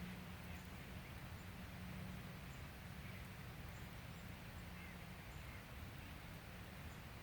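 Faint outdoor ambience: a steady low hum with a few faint, short high chirps scattered through it.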